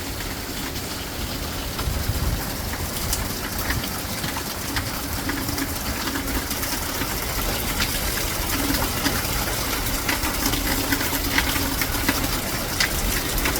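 Storm wind gusting with wind-driven rain, the wind rumbling on the microphone and raindrops ticking.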